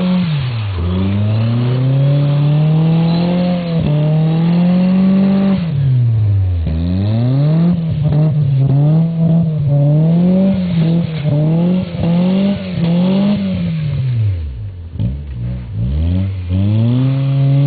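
Mazda MX-6 engine revving up and easing off again and again while the car is spun in donuts. Its pitch climbs and falls repeatedly and drops low about a second in, about six seconds in and again around fifteen seconds in.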